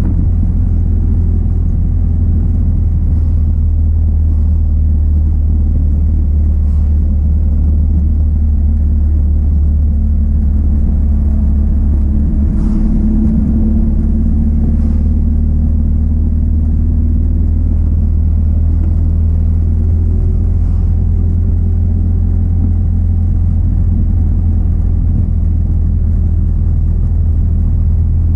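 1966 Triumph Spitfire's four-cylinder engine running steadily while the car cruises along, heard from a camera mounted on its bonnet, as a loud, even drone.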